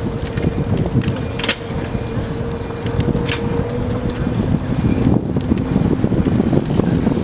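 Wind buffeting the microphone over the rumble of a bicycle rolling along, with a thin steady hum for the first half and a couple of sharp clicks.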